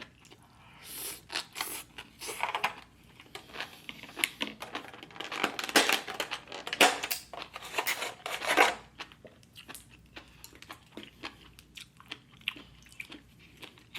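Close-miked eating: a person chewing a mouthful of seaweed salad, a busy run of irregular wet clicks and smacks that is densest in the middle.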